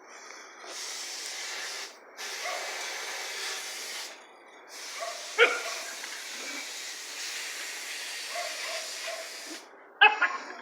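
Dogs breathing hard with a steady hiss, with a single sharp bark about five seconds in and a quick burst of barks near the end.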